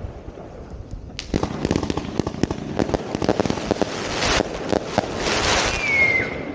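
Fireworks going off: after a quieter first second, a dense run of sharp bangs and crackles, with a short falling whistle near the end.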